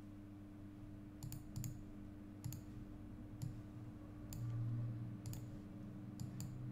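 Computer mouse and keyboard clicks, about a dozen scattered sharp clicks, some in quick pairs, over a faint steady electrical hum.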